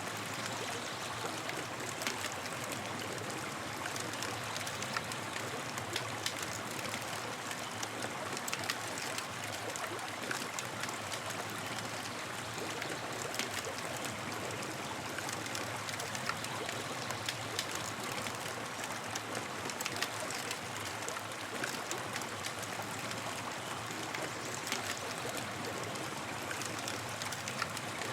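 Campfire burning with a steady hiss and many small irregular crackles and pops from the wood.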